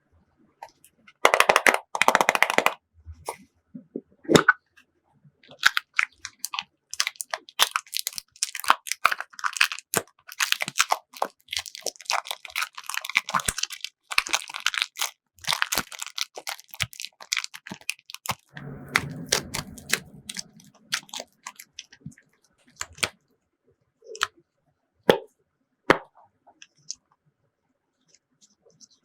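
Clear slime being kneaded and pressed by hand, giving dense runs of sticky crackling and popping clicks with quieter pauses between them.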